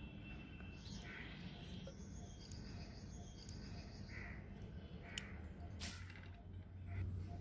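Faint background with a few short, scattered bird calls, of the kind PANN files under crow cawing.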